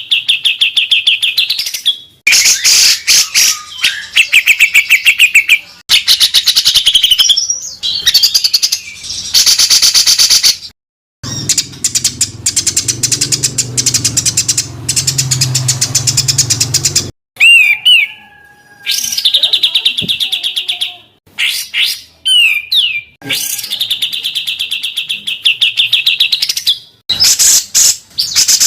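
Songbird calls for bird training: dense, rapid, harsh chattering trills and bursts of fast repeated notes, in short segments that cut off abruptly and change from one to the next. In the middle stretch a low hum runs under the calls.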